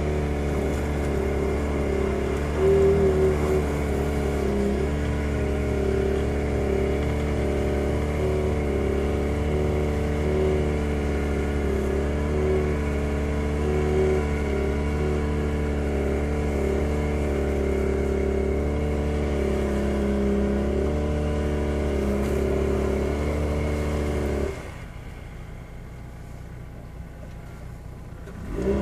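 2010 Jeep Patriot's four-cylinder engine held at high, steady revs with small wavers in pitch while its wheels spin in hard-packed snow. About three-quarters of the way through, the throttle comes off abruptly and the engine note drops away, then it rises again right at the end.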